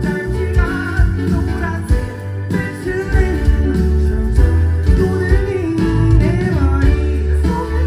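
Live band playing a pop-rock song, with heavy bass and drums under a male lead vocal melody.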